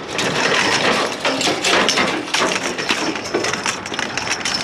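Scrap clattering and scraping as a heavy, tangled piece is dragged and wrestled loose from the load on a trailer: many rapid, irregular knocks and scrapes.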